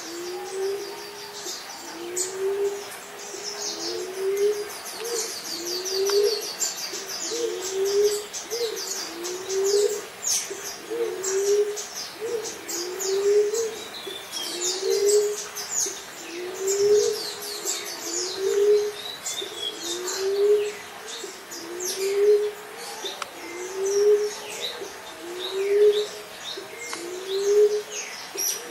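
Emerald dove calling: a low, soft coo that rises slightly in pitch, repeated steadily a little over a second apart. Other small birds chirp and twitter at a much higher pitch over it, busiest in the first half.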